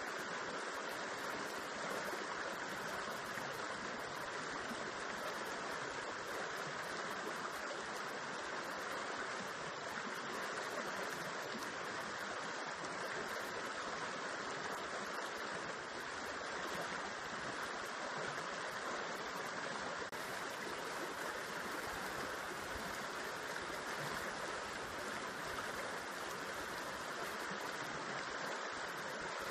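River water spilling over rocks into a pool, a steady rushing splash with no breaks.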